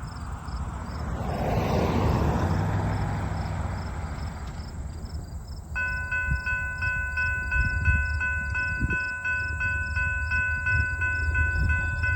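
Slow freight train rumbling as it arrives. About six seconds in, a level-crossing bell starts ringing rapidly, about four strokes a second.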